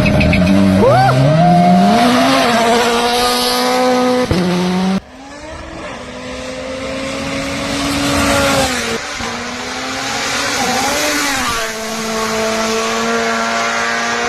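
Rally car engines at full throttle, the pitch climbing and dropping with each gear change. The sound breaks off abruptly about five seconds in, and a second car is heard growing louder as it revs through its gears.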